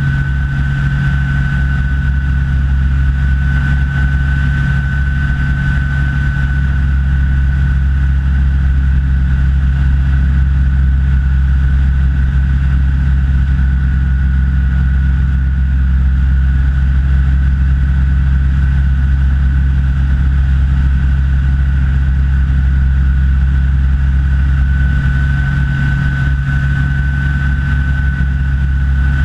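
Rans S6 light aircraft's engine and propeller running steadily in flight, a loud even drone with a thin, steady high whine above it.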